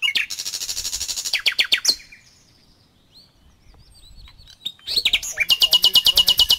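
A songbird singing two rapid trilled phrases. The first lasts about two seconds from the start; the second, a longer, very fast and even trill, begins about five seconds in.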